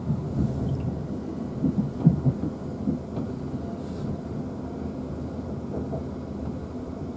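Cabin rumble of a South Western Railway Class 450 electric multiple unit running at speed, with a few louder knocks from the wheels, bunched about two seconds in.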